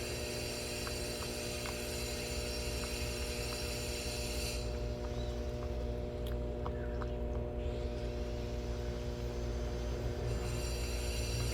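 Steady machine hum made of several fixed tones over a low rumble, with a few faint scattered ticks. The high whining tones drop out for several seconds in the middle, then return.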